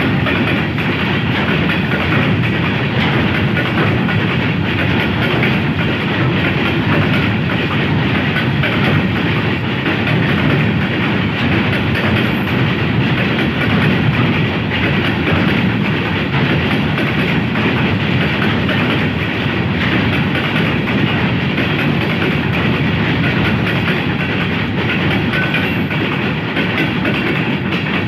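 A freight train running past at speed: a steady, loud rattle of wagon wheels over the rails.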